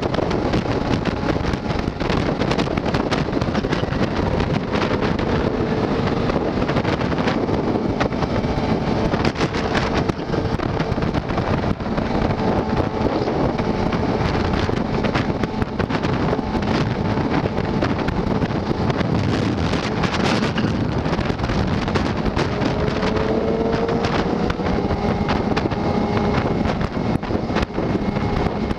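Wind rushing over the microphone of a moving motorcycle, a steady loud roar with the engine's drone faintly underneath.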